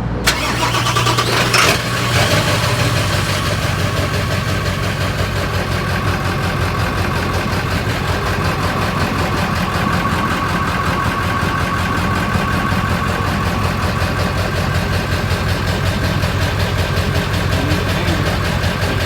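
Ford 7.3 Powerstroke V8 turbo-diesel cranked over and catching about a second and a half in, then idling steadily through a 5-inch straight-pipe exhaust.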